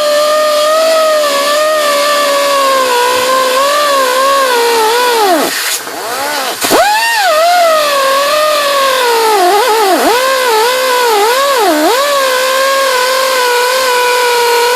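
A high-speed electric power tool motor running loud and steady, its pitch dipping sharply each time it is pressed into the work. About five and a half seconds in it winds down and stops, then starts up again a second later.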